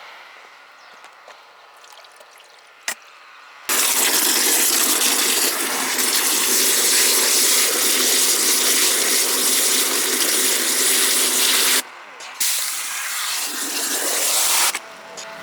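Water spraying hard in a long burst of about eight seconds, then a shorter burst of about two seconds, each starting and stopping abruptly. Before it come a few quiet seconds with a single sharp knock.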